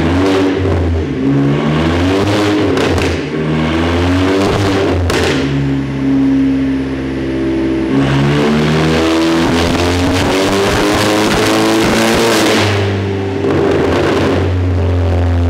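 Turbocharged 2.0 TFSI four-cylinder engine of a K04-converted Mk5 Volkswagen Golf GTI revving on a rolling-road dyno, the revs climbing and dropping again every second or two. This is the run on which the car lost all boost pressure, traced to a failed intercooler hose.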